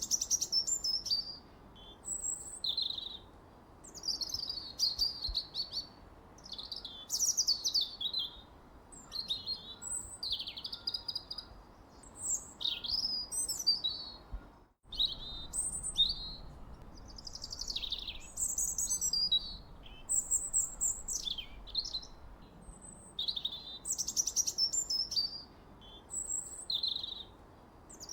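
Songbirds singing: a steady run of varied high chirps, trills and short falling whistled phrases over a faint hiss, cutting out for a moment about halfway through.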